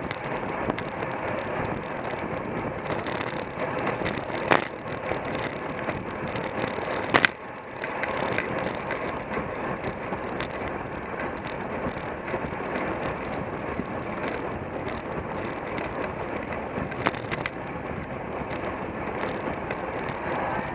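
Racing bicycle at speed with wind rushing over a bike-mounted camera, a steady noise of tyres and drivetrain. A few sharp knocks, about four seconds in, seven seconds in and near the end, from bumps jolting the camera mount.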